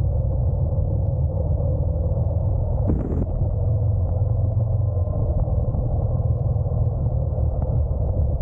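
Steady, dull rumble of a Honda NC750X DCT motorcycle under way, its parallel-twin engine mixed with wind and road noise. There is a brief brighter rush of wind about three seconds in.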